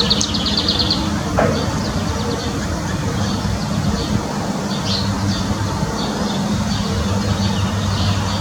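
Small birds chirping and trilling over a steady low mechanical hum. The quick trill is in the first second, with shorter chirps about five seconds in and near the end.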